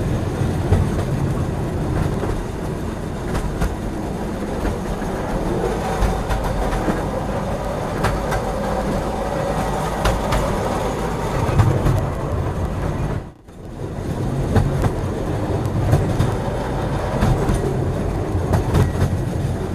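Freight train rolling by: a steady rumble with the wheels clicking over the rail joints. The sound drops out suddenly for a moment about two-thirds of the way through, then comes back.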